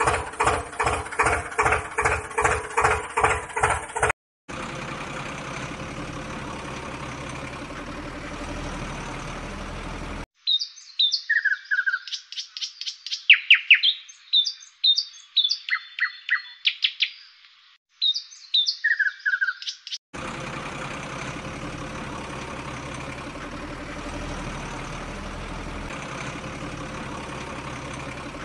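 Rhythmic chugging, about two to three beats a second, that cuts off about four seconds in. Then a steady hiss, broken from about ten to twenty seconds in by bird chirps and short falling whistles, before the hiss returns.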